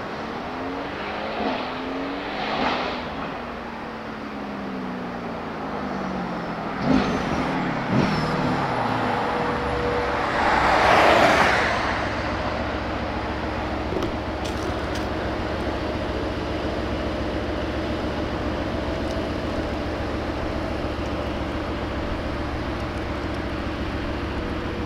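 Mercedes-AMG GT R Pro's twin-turbo V8 through an FI exhaust: the engine note falls as the car slows, with two sharp cracks about seven and eight seconds in and a brief loud rush of noise around eleven seconds, then it runs steadily at a low, even note.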